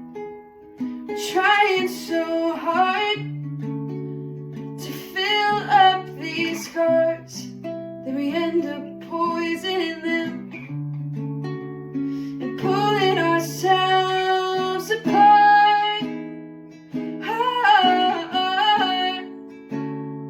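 Song: a woman singing in phrases of a few seconds over plucked acoustic guitar accompaniment.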